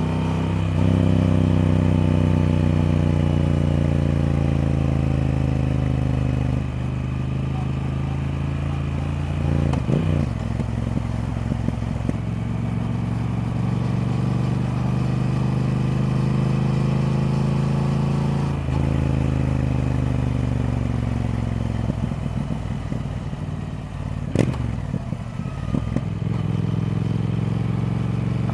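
Triumph Speed Twin's parallel-twin engine running steadily. Its pitch drifts and steps abruptly a few times, as with throttle and gear changes, and there are sharp clacks about ten seconds in and again near twenty-four seconds.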